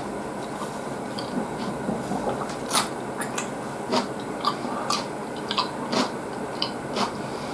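A person chewing food close to the microphone, with short wet clicks and smacks that come about every half second from the middle on.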